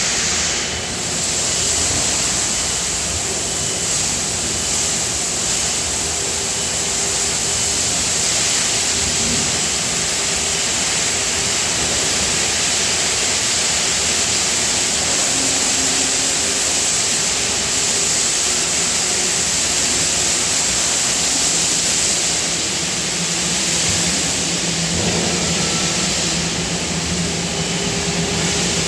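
Steady die casting plant machinery noise: an even rushing hiss with a few faint steady tones underneath.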